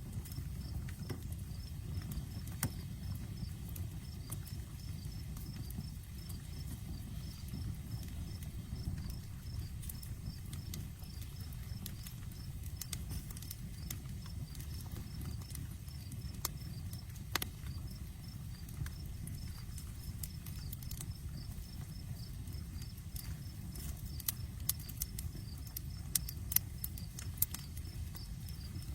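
Outdoor wood campfire burning, a low steady rumble of flames with scattered sharp crackles and pops, which come more often near the end. A faint, evenly repeating high insect chirping sits underneath.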